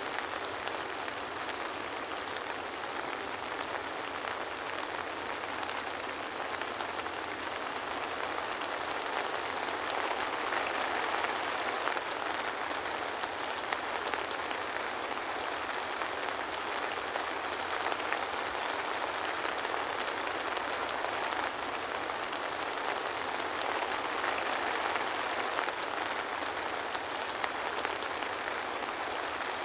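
Steady soft rain, an even patter with no thunder, swelling slightly at times.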